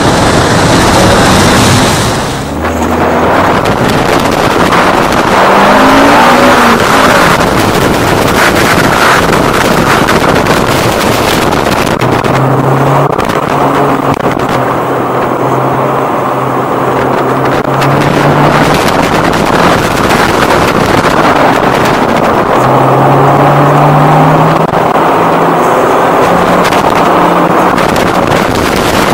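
Car engine being driven hard, its pitch rising repeatedly as it accelerates between turns, under a steady rush of wind and road noise.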